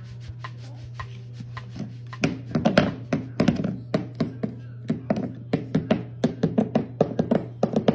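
A quick series of sharp knocks or taps, roughly four or five a second, much louder from about two seconds in, over a steady low hum.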